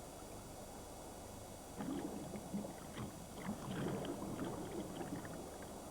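Sea water splashing and sloshing against rock, in irregular surges that start about two seconds in over a steady low hiss.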